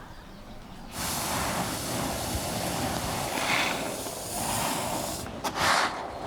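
A steady rushing noise that starts suddenly about a second in, with a few louder bursts near the end.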